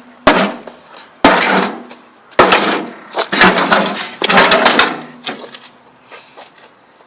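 Microwave oven's metal casing being smashed: heavy strikes, each ringing briefly. They fall about a second apart at first, then come in a quick flurry of several about halfway through, with a few lighter knocks near the end.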